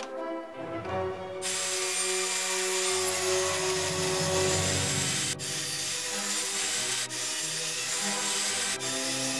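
Benchtop table saw running and cutting a 2x4, starting about a second and a half in and broken off for an instant three times, over background music.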